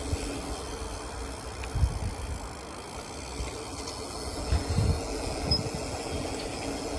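BMX bike ridden fast along a dirt forest trail, heard from a phone mounted on the bike: steady tyre rumble and frame rattle, with low thumps over bumps about two seconds in and again around four and a half to five seconds in.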